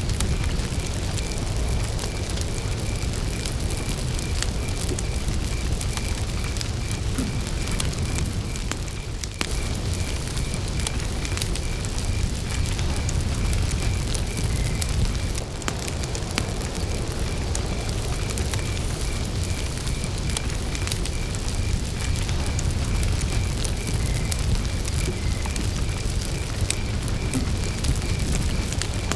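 Wood campfire burning with a low rumble and frequent sharp crackles and pops, while crickets chirp in a steady, evenly pulsed high-pitched rhythm.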